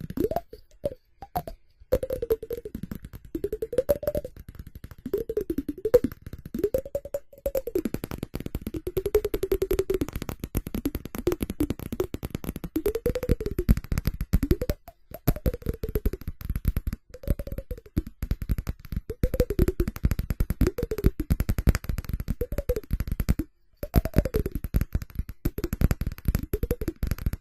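Fast, dense fingertip and nail tapping on ceramic, with a hollow ringing tone that rises and falls in pitch as the tapping goes on, broken by a few short pauses.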